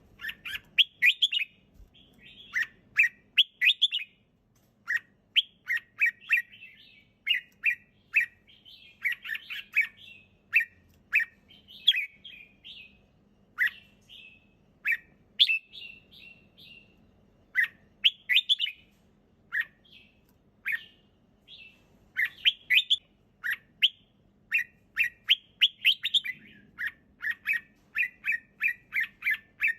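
Red-whiskered bulbul singing: short, quick whistled phrases of a few notes each, repeated one after another with brief pauses.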